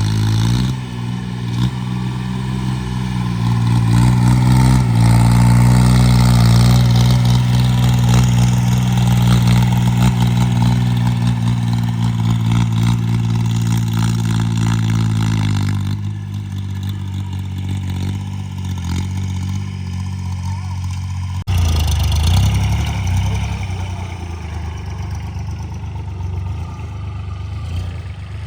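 Homemade tractor's engine running with a steady, even note. It speeds up in the first couple of seconds and settles lower and quieter about two-thirds of the way through.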